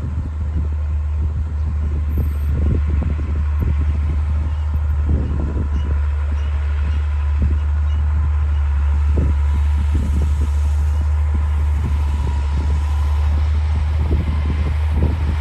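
D60 bulldozer's diesel engine running steadily under load, with irregular low knocks and thuds from the machine working.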